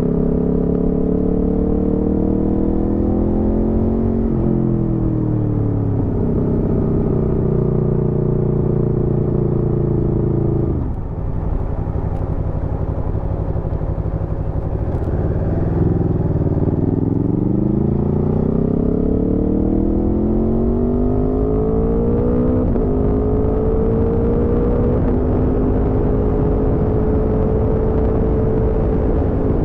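Aprilia Tuono V4 motorcycle's V4 engine under way: the revs climb and drop sharply at upshifts about four and six seconds in. It then holds a steady pitch and goes off the throttle around eleven seconds to coast. From about sixteen seconds it pulls hard again, with two more upshifts, and settles to a steady cruise near the end, over a constant low wind rumble.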